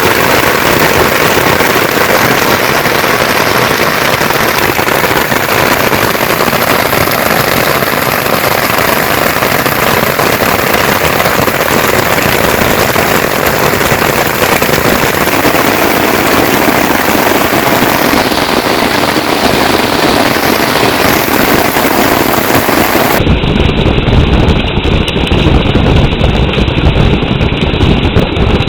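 Heavy rain falling, a loud, dense, steady hiss with crackle. About 23 seconds in it changes abruptly to a duller, deeper rumble with the high end cut away.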